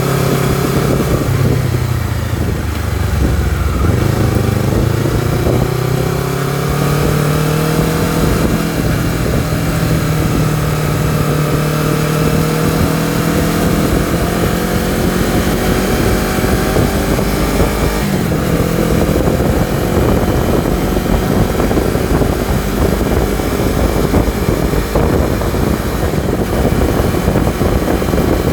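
Honda CBR250RR parallel-twin engine and exhaust under way. Its note dips briefly about three seconds in, then climbs slowly in pitch as the bike pulls through a gear. About two-thirds of the way through it changes and runs on steadier and rougher, with wind rush underneath.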